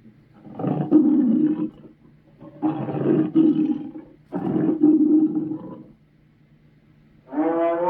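Chernabog's demon roar sound effects: three rough growling roars in a row, then after a short pause a fourth, more tonal roar that falls in pitch near the end.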